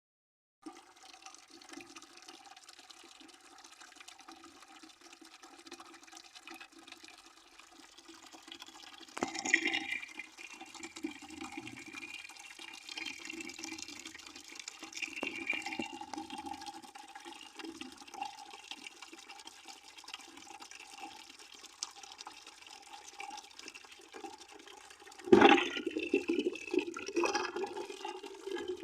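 Water pouring and splashing into a bucket, with sudden louder surges about nine seconds in and again near the end.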